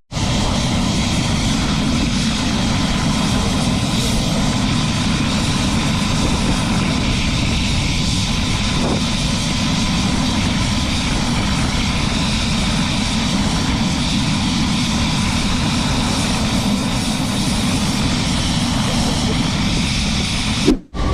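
Helicopter in flight, heard from on board: a steady, loud drone of engine and rotor with a fast low flutter from the blades. The sound cuts out briefly near the end.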